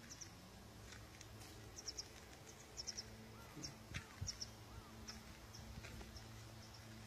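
Small birds chirping faintly: short high notes in quick clusters of two or three, repeated every second or so, with a couple of short rising-and-falling whistles near the middle, over a faint steady low hum.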